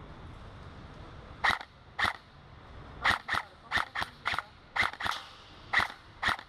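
Airsoft electric gun (AEG) firing single shots in semi-automatic, about eleven sharp cracks at uneven intervals, some in quick pairs.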